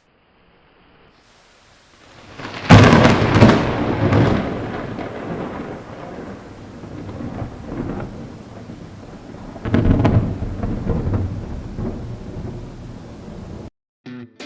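Thunder: a sharp crack a few seconds in rolls into a rumble that dies away, then a second loud peal comes near the end and fades more slowly. The sound cuts off suddenly just before the end.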